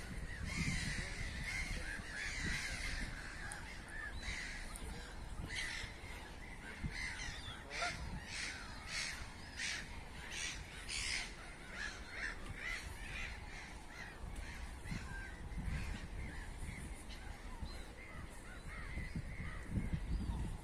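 Birds calling over and over outdoors, with a quick run of calls at about two a second in the middle of the stretch.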